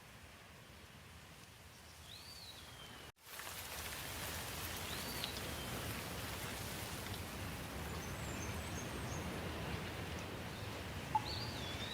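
A steady background hiss, cutting out for an instant about three seconds in and coming back louder, with a few short bird chirps over it.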